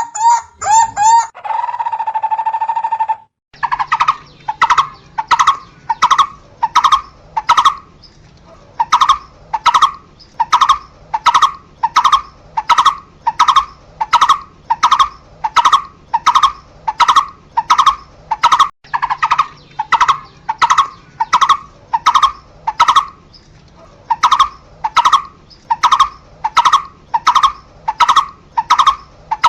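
Asian barbet calling: a single note repeated about twice a second in long runs, with brief pauses between runs. It is preceded by a rapid series of notes and a held tone of about two seconds, then a short gap, with a faint low hum beneath the calls.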